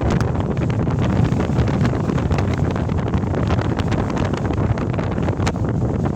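Storm-force wind buffeting the microphone in a loud, continuous rumble, with many sharp cracks scattered through it.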